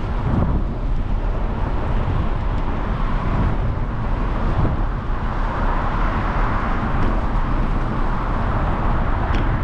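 Steady road and wind noise from riding a bicycle among traffic, with a car passing on the wet road about midway through.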